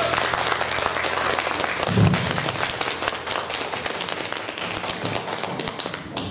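Audience applauding, dense clapping that slowly fades, with a short voice-like sound about two seconds in.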